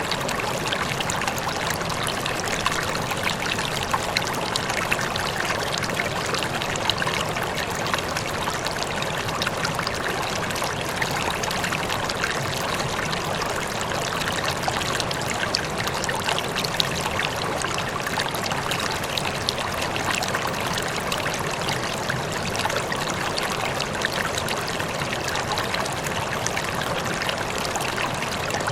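Flowing water in a stream, trickling and splashing steadily with many small bright droplet sounds and no change in level.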